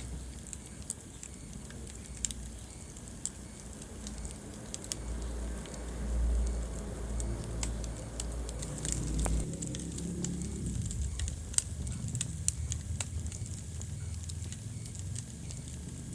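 Wood fire crackling in a fireplace: scattered sharp pops and snaps over a low rumble of the flames.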